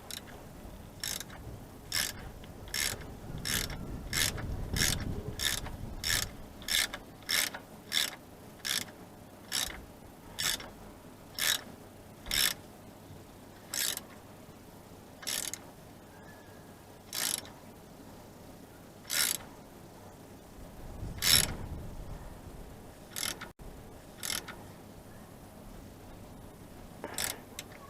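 Socket ratchet wrench being worked in short strokes, with a quick burst of clicks on each back-swing. The strokes come close together at first, then slow and space out as the fastener tightens, with one louder stroke about two-thirds through.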